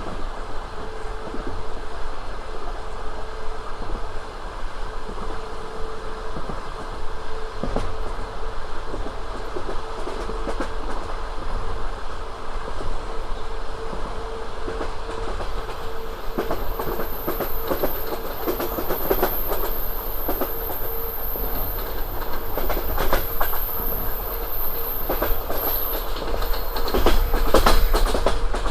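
Passenger train carriage rolling along, its wheels clattering over rail joints with a steady rumble and hum. About halfway through, a high thin whine joins in, and the clacks come thicker toward the end.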